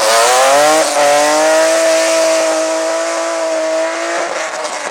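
Race car engine at high revs accelerating through the gears: an upshift about a second in, a long steady high note, then another shift near the end.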